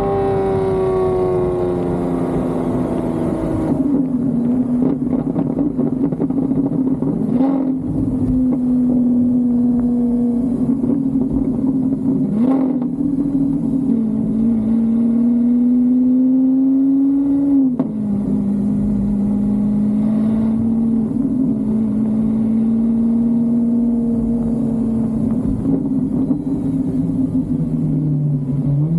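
Car engine running under steady load while driving. Its note falls over the first few seconds, climbs slowly and drops sharply about 18 seconds in, then drops again right at the end.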